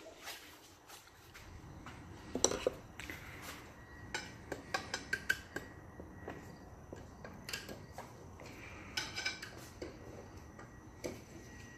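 Small metal transmission parts and hand tools clinking and tapping: a string of light, irregular metallic clicks, coming in quick runs at times.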